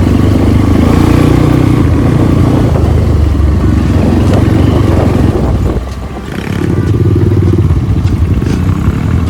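Off-road motorcycle engine running loudly under load, its note dropping for a moment about six seconds in and then picking up again.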